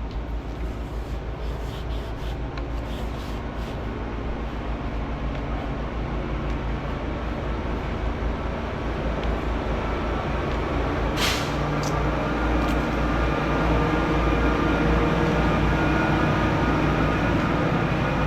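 Steady mechanical rumble with a low hum, growing gradually louder, and a short hiss about eleven seconds in.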